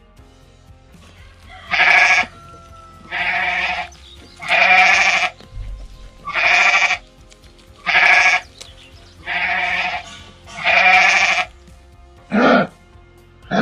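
Repeated bleating from a goat or sheep: seven drawn-out calls about every second and a half, then shorter ones near the end, over soft background music.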